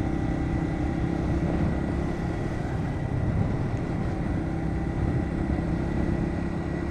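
Bajaj Pulsar NS125 single-cylinder motorcycle running steadily while being ridden, with wind and road noise.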